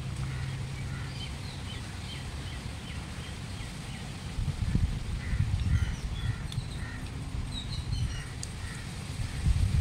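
Small birds chirping in the background, many short high calls scattered throughout, over a low rumble that swells about halfway through and again near the end.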